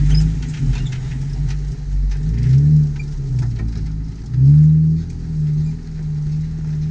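Jeep Wrangler engine running at low revs while crawling over rock, briefly revved up twice, about two and a half and four and a half seconds in.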